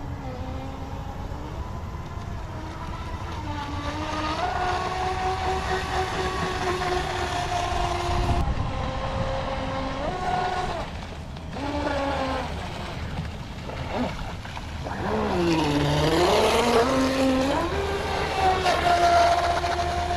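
Brushless electric motor of a radio-controlled speedboat whining as it runs across the water, its pitch stepping up, holding, then dropping and climbing again as the throttle is worked, over a steady hiss of water.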